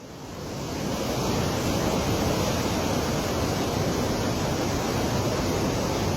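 Floodwater rushing through Tarbela Dam's opened spillways: a steady wash of water noise that fades in over the first second and then holds.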